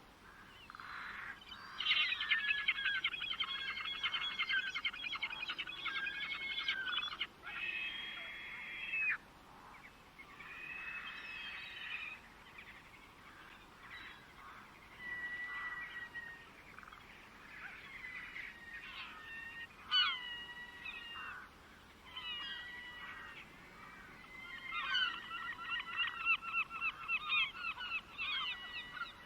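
Wild birds calling and singing: a fast chattering run of notes for several seconds, then scattered whistled and slurred calls, and another fast chattering run near the end.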